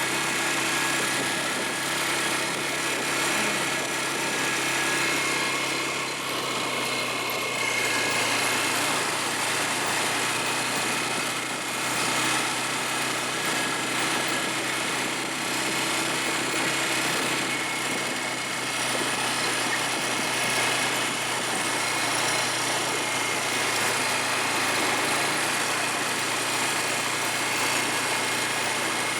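ATV engine running steadily at a fairly constant speed.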